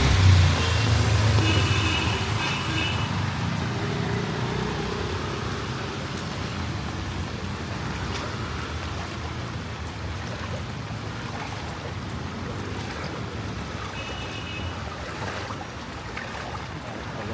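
A motor vehicle's engine rumbling close by at the start and fading away over the first few seconds, leaving steady street traffic noise. Short high-pitched beeps sound twice, about two seconds in and again near the end.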